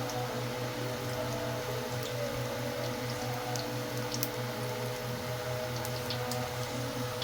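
Pot of food simmering on the stove: scattered faint pops and ticks over a steady hum, with a low drone pulsing about four times a second.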